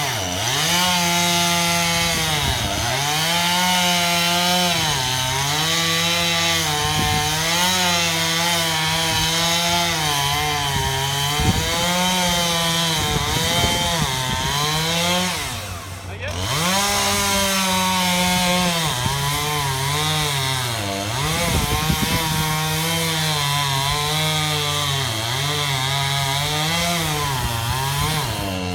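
Chainsaw running at high revs and cutting into a tree trunk, its pitch sagging and recovering again and again as the chain bites into the wood. About halfway through the throttle is let off briefly, then the saw revs back up and keeps cutting.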